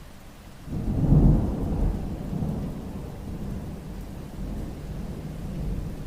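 Thunder rumbling over steady rainfall. It breaks in suddenly about a second in, peaks almost at once, and rolls on low and deep, slowly fading.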